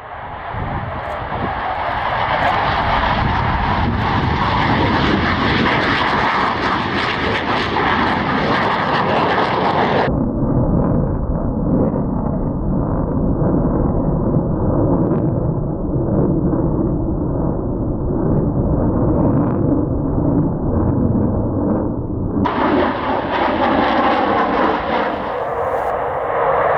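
F/A-18 Hornet's twin jet engines running at display power in a loud, steady roar. The sound changes abruptly about ten seconds in and again about 22 seconds in.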